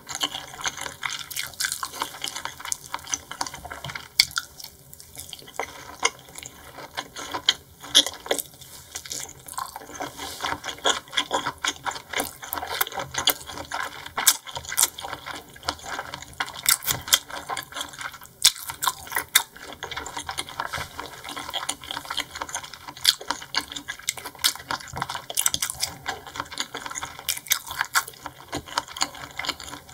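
Close-miked chewing of seafood, a dense, irregular run of wet clicks and smacks from the mouth.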